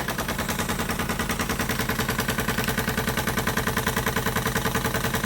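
Retrol SE-02 model steam mill engine running under steam and driving a small generator and light, with a fast, even beat of exhaust chuffs and mechanical clatter several times a second. The clatter seems a little loud, which is put down to the engine being brand new and not yet bedded in and to it shifting about on its wooden board.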